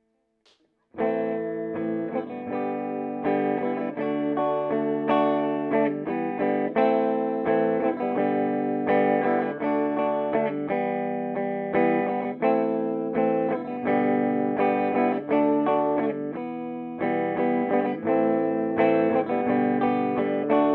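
Electric guitar played through a Peavey Bandit 112 TransTube combo amp on its clean channel in Classic voicing, high-gain input, sounding through the amp's 12-inch speaker. Chords are played in a steady rhythm, starting about a second in, with a brief break about three-quarters of the way through.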